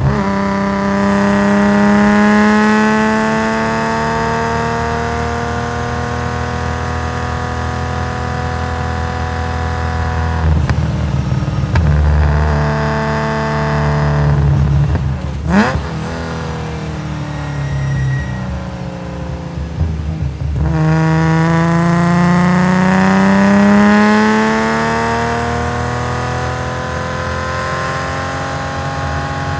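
Nissan S20 twin-cam straight-six of a race-tuned Skyline 2000GT-R, heard on board and revved hard, its pitch climbing through the gears. About halfway it eases off with one sharp crack and a quick rise and fall in pitch, then pulls up again to high rpm from about two-thirds in.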